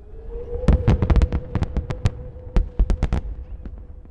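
Aerial fireworks going off in a rapid string of sharp bangs and cracks, about a dozen in two and a half seconds, then thinning to a few scattered pops near the end.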